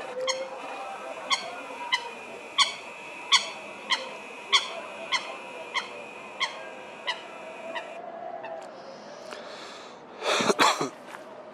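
A bird calling with a series of about a dozen short, sharp honk-like calls, roughly two a second, growing fainter after the first few seconds. About ten seconds in comes a brief, loud burst of rustling noise.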